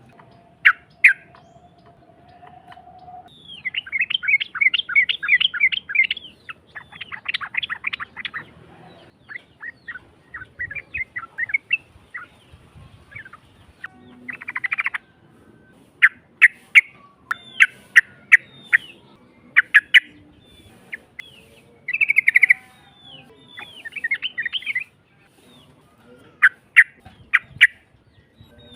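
Yellow-vented bulbul (trucuk) calling in a harsh, rough voice. Its rapid chattering bursts alternate with runs of sharp single notes, separated by short pauses. A steady faint hum sounds under the first few seconds.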